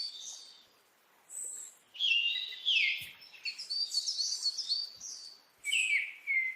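Birdsong: quick chirps and slurred whistles in several short phrases separated by brief pauses.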